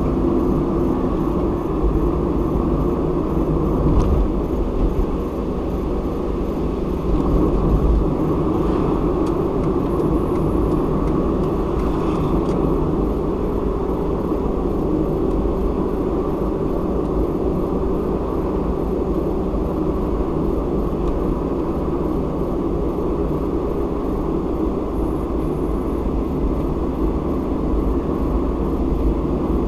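Car driving at road speed, a steady rumble of tyres and engine, with a brief knock about four seconds in.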